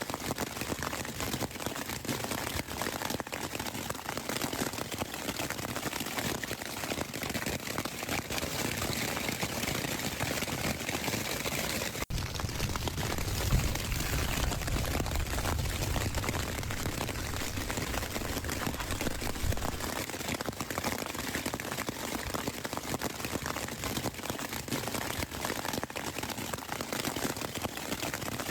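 Steady rain pattering, a dense even hiss of drops, with a low rumble added from about 12 to 20 seconds in.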